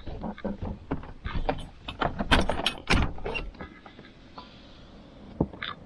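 A quick run of clicks, knocks and clatter, loudest about two to three seconds in, then quieter with one sharp knock near the end.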